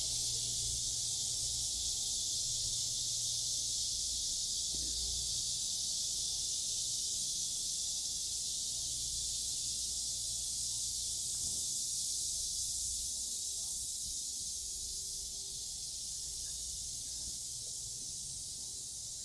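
Cicadas singing in a steady, high-pitched, dense chorus, growing slightly fainter near the end, over a faint low rumble.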